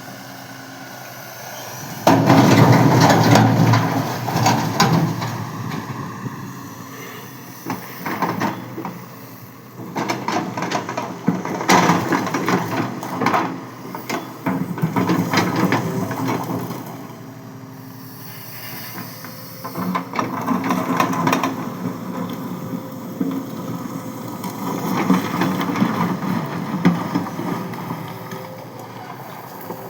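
Tata 220 excavator engine running while stone is loaded, with repeated bursts of rocks clattering and knocking as the bucket scoops and dumps them, the loudest starting about two seconds in.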